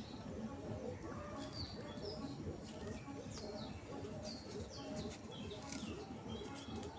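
Small birds chirping: many short, high, falling chirps scattered throughout, over a busy low background noise.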